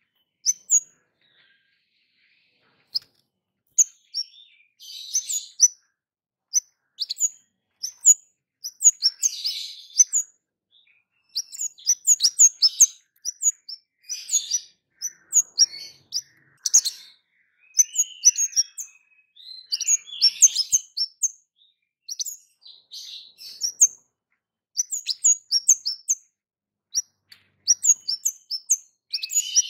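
Caged kemade bird calling in a repeated 'cit keres' pattern: clusters of short, sharp high chirps mixed with rasping, buzzy calls, recurring every second or two.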